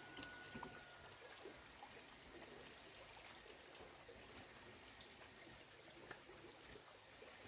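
Near silence: a faint, steady hiss with a few faint scattered ticks.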